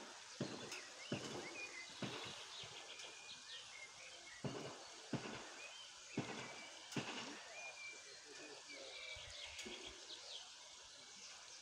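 Small birds chirping and singing in short phrases over a steady outdoor hiss. A series of soft thumps comes in the first seven seconds or so.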